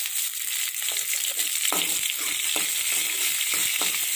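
Whole small onions (shallots), garlic cloves and green chillies sizzling in hot ghee and oil in a metal kadai, with a steady hiss. A metal ladle stirs them, scraping and knocking against the pan several times.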